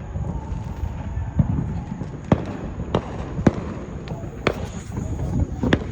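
Fireworks going off: about six sharp bangs at uneven intervals, over a steady low background noise.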